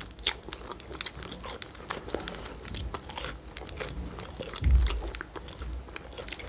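Close-miked chewing and biting of a soft pastry: many small wet mouth clicks and smacks. A single low thump about three-quarters of the way through is the loudest sound.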